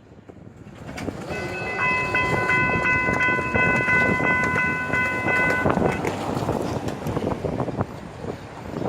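Train horn sounding one long blast of several tones together for about four and a half seconds, over the rising rumble and clicking of an approaching train's wheels on the rails.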